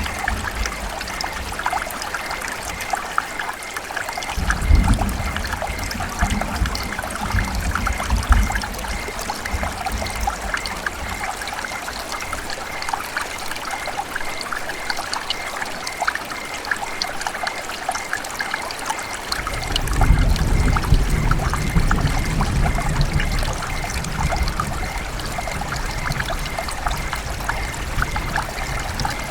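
River water trickling and gurgling in a steady babble. A deeper low rumble swells in twice, a few seconds in and again about two-thirds of the way through.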